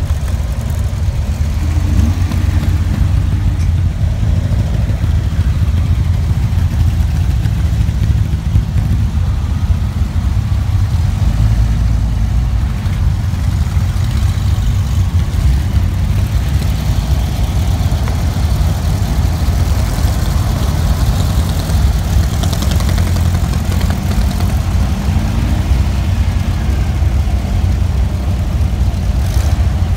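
Air-cooled Volkswagen flat-four engines of Beetles and buses running at idle and crawling speed in a slow parade, a steady low rumble. A few brief revs rise and fall, about two seconds in and again near the end.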